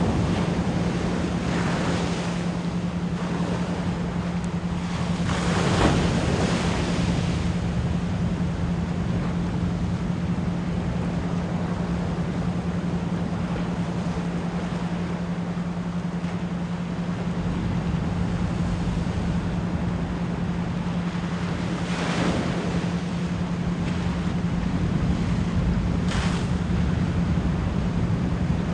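Ocean waves washing onto shore, with bigger swells breaking about six seconds in and again near 22 and 26 seconds, over a steady low 174 Hz pure tone.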